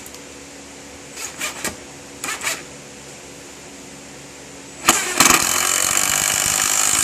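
Electric power drill run in a few short bursts, then held in a steady run of about two seconds near the end.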